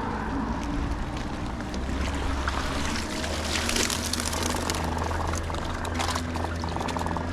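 Water pouring and splashing, as from a cast net being worked and hauled out of the shallows, over a steady low rumble. The splashing is heaviest a few seconds in.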